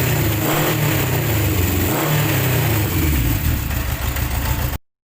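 A 1972 Honda CB750 K2's air-cooled inline-four engine running, its revs rising and falling a few times with the throttle. The sound cuts off suddenly near the end.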